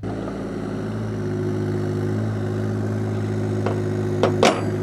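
An engine running steadily at idle, with a couple of sharp metallic knocks near the end.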